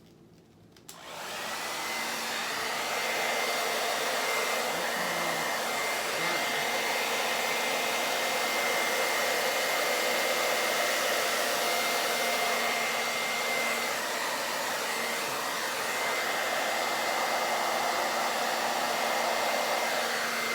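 Handheld hair dryer switched on about a second in, then running steadily with a thin high whine over the rush of air. It is blowing wet fluid acrylic paint across a canvas in a Dutch pour.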